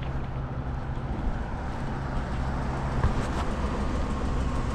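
Truck engine running steadily at idle, a low, even tone.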